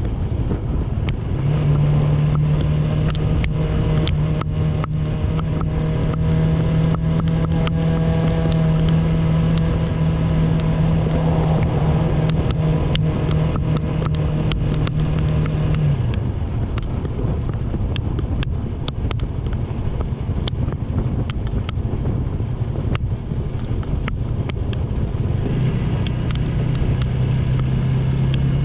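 Motorcycle ride with the engine running at a steady, even note and wind buffeting the microphone. The engine note drops out about halfway through, leaving mostly wind rush, and returns near the end.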